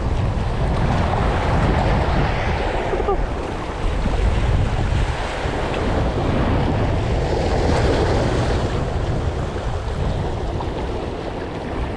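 Wind buffeting the microphone with a heavy low rumble, over the wash of Red Sea waves that swell and ebb every few seconds.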